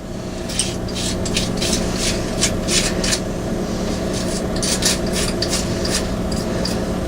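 Repeated short rubbing or scraping strokes, a few a second, with a pause about halfway through, over a steady low hum.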